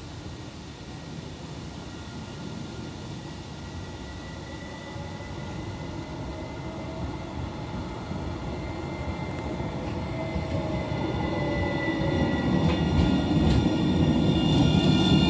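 Rotterdam tram approaching, its running noise growing steadily louder. Whining tones shift slowly in pitch, and higher squealing tones join near the end as it comes close.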